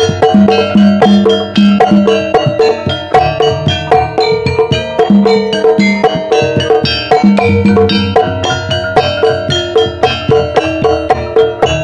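Javanese gamelan music in the Banyumas ebeg style: metallophones struck in a fast, steady pattern over low drum beats.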